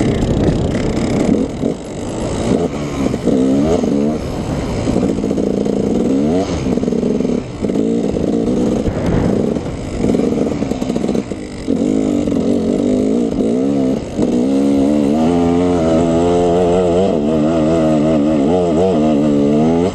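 KTM 300 two-stroke dirt bike engine revving up and down under riding, its pitch rising and falling constantly with the throttle, with a few brief drops in level along the way.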